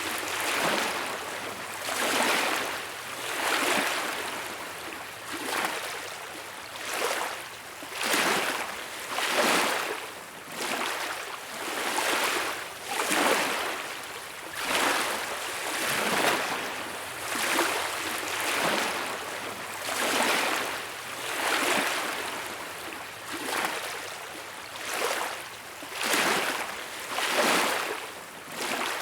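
Small waves washing onto a beach, the surf swelling and fading every second or two in a steady rhythm.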